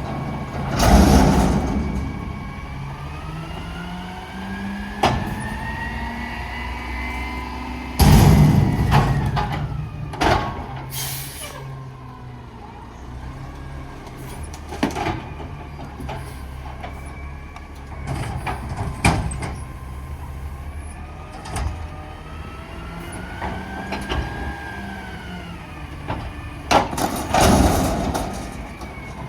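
Diesel garbage truck at work, its engine revving up and falling back slowly several times. Three loud air hisses come about a second in, around eight seconds and near the end, with scattered clanks and knocks.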